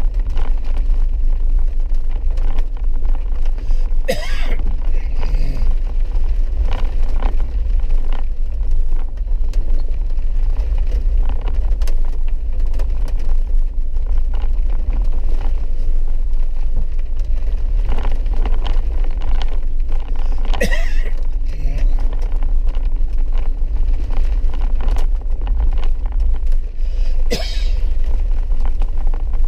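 Steady low rumble of a four-wheel-drive vehicle driving slowly on a wet, muddy dirt mountain road, heard from inside the cabin. Three brief sharp noises cut through it: a few seconds in, past the middle and near the end.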